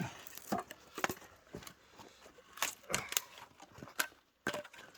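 Irregular wooden clicks and knocks, about a dozen in a few seconds, from firewood near a freshly lit fire.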